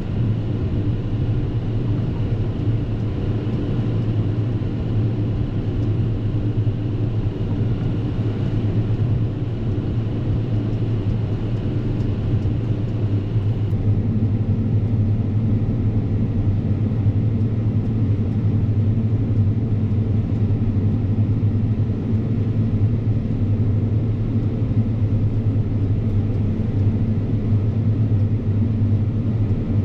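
Fendt 724 tractor's six-cylinder diesel engine running steadily under load while mowing, with its front and rear mower combination driven. A faint high whine drops out about halfway through, and the engine note shifts slightly.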